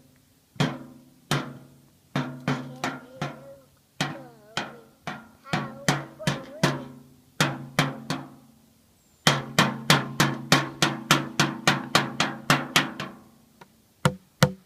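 A percussion instrument struck over and over, each hit ringing briefly with a low pitch. The strikes come about every half second at first, then in a fast run of about five a second for some four seconds before slowing and stopping.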